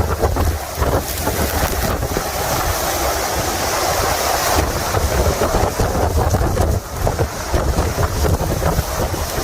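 Strong wind buffeting the microphone during a severe storm, a steady low rumble under a hiss of wind and rain.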